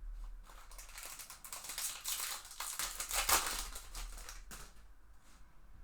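Trading cards being handled: irregular rustling and sliding, loudest about three seconds in and dying down after about four and a half seconds.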